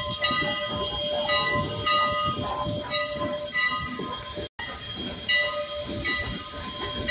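Strasburg Rail Road No. 89, a 2-6-0 steam locomotive, working a passenger train, heard from the train. Its exhaust chuffs come about twice a second under steam hiss, with high ringing tones that come and go. The sound cuts out for an instant about four and a half seconds in.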